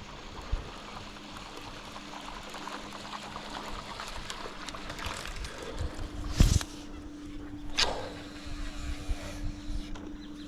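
Wind and water noise around a small fishing boat on a river, with a steady low hum under it. Past the middle come two sharp knocks about a second apart, the first the loudest.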